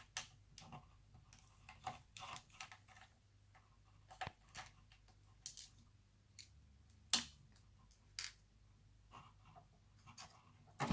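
Scattered faint clicks and scrapes of small laptop parts being handled as a wireless/Bluetooth module is worked loose from a laptop motherboard, with one sharper click about seven seconds in.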